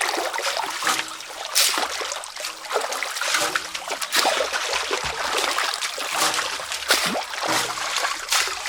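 Water splashing and trickling in small, irregular splashes.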